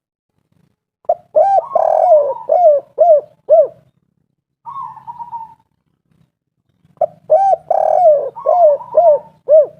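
Spotted dove (derkuku/tekukur) cooing: two full song phrases of hooting coos, each ending in three quick, evenly spaced notes, the 'kuk 3' ending. A softer, higher warbled call comes between the two phrases.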